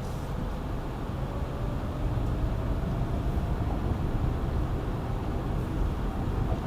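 A car driving, with a steady low rumble of engine and tyre noise and a faint whine that rises slowly in pitch over the first few seconds as it speeds up.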